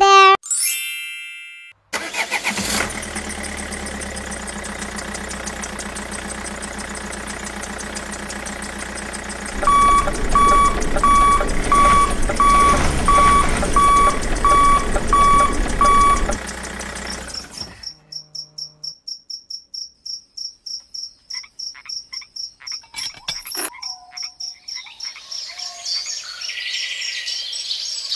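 Tractor engine running steadily, growing louder about ten seconds in with a beep repeating about twice a second. The engine cuts out and gives way to a high steady trill, with chirps near the end.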